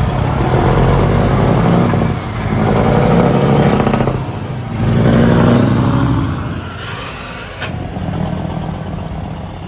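Scania P-series truck diesel engine with a straight-piped exhaust, revved up three times in swells, then dropping back to a lower steady run.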